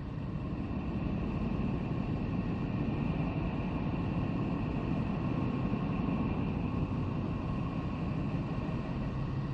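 Sonified spacecraft radio or plasma-wave recording: a steady low rumbling hiss with faint steady high tones running through it.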